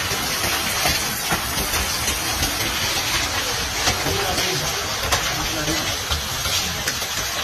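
Heavy rain and hail pelting down in a storm: a loud, dense steady hiss with many scattered sharp ticks of impacts.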